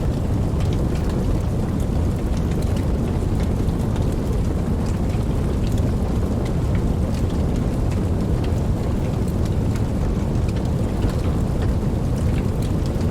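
Steady rain falling, a dense unbroken wash with a deep low rumble beneath and scattered sharp ticks of individual drops.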